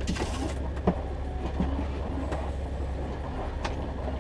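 A boat's motor runs steadily with a low drone. A short hiss comes just at the start, and a few light knocks and clicks from gear on board are heard over it.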